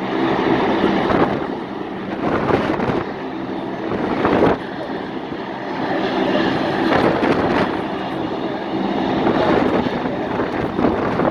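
Steady engine drone with a mix of rushing noise, swelling and easing a few times.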